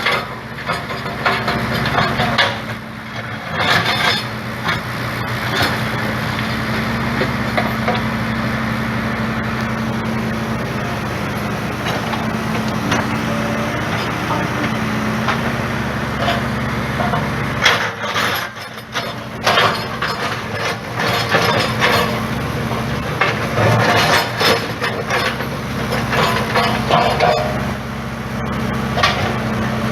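Diesel engine of heavy farm machinery running steadily while it digs, with irregular knocking and clattering of stone, concrete rubble and soil; the engine briefly drops away a little past halfway before picking up again.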